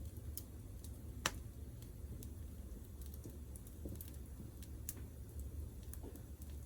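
Wood fire in a Picogrill fire pit crackling: scattered sharp ticks and pops, one louder pop about a second in, over a low steady rumble.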